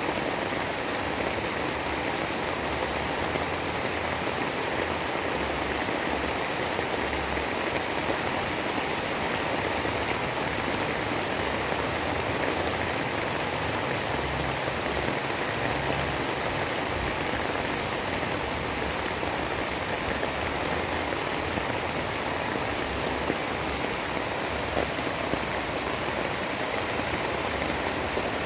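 Steady, even storm noise like heavy rain falling, with no thunder or distinct gusts.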